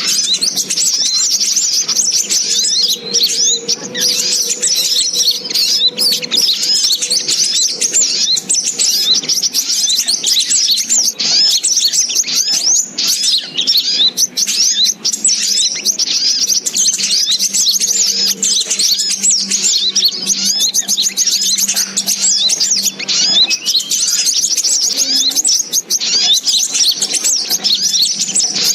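Brown-throated sunbirds (sogok ontong) chirping and calling continuously: a dense, unbroken stream of rapid high-pitched chirps and short twittering phrases, as used in a bird-lure recording.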